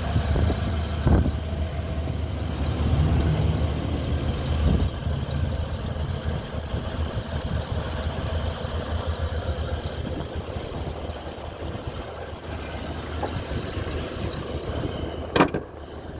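2015 Chevrolet Silverado 2500 HD engine idling steadily, heard close up in the open engine bay. A single sharp knock near the end.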